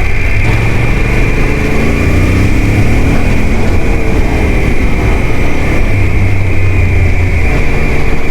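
Off-road motorcycle engine running loud while riding, its revs rising and falling with the throttle.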